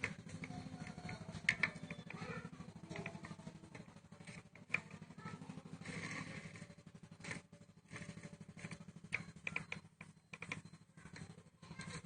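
Scattered light clinks and taps of tools and metal parts being handled during motorcycle engine assembly, over a steady low hum.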